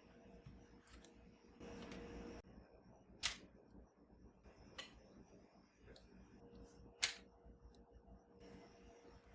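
Quiet handling sounds: two sharp clicks about four seconds apart, a few fainter ticks, and a brief hiss about two seconds in.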